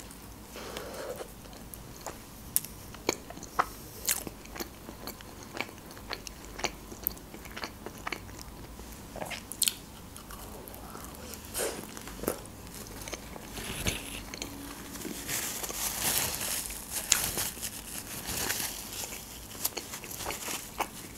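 Close-up biting and chewing of a homemade shawarma wrap: sharp crunchy bites scattered through the first half, then denser, steadier chewing in the second half.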